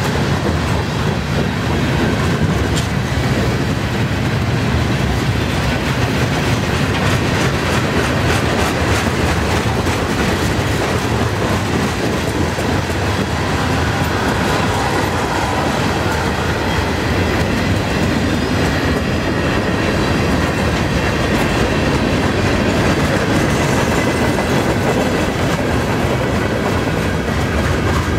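Freight cars of a long freight train (covered hoppers, tank cars, boxcars) rolling past at low speed: a steady heavy rumble with wheels clacking over the rail joints.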